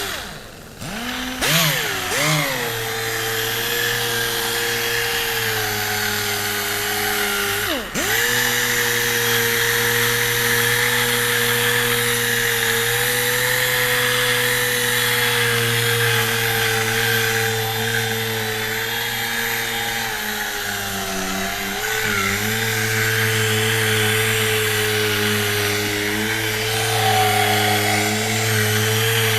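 Small orbital sander with a foam sanding disc, sanding a plastic headlight lens in the final fine-grit step of a headlight restoration. It spins up with a rising whine in the first couple of seconds, drops and picks up again once about eight seconds in, then runs steadily, its pitch sagging slightly at times as it is pressed into the lens.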